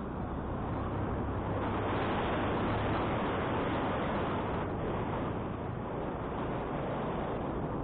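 Wind rushing over the microphone of a moving motorcycle, with the motorcycle's engine running steadily underneath as a low hum; the rush swells a little about a second in.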